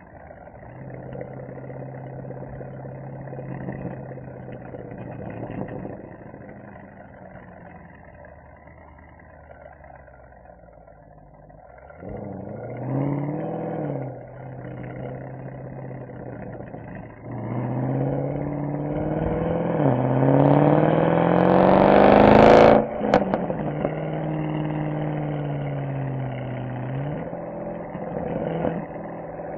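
Mercedes-AMG SL63's V8 exhaust: cruising low and steady, a short rise and fall in revs before halfway, then a hard acceleration climbing in pitch through one gear change and cutting off sharply at its loudest, before settling back to a steady cruise.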